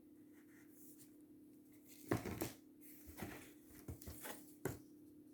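Cardboard fireworks being handled and moved about: a few short, light knocks and rustles over a faint steady hum.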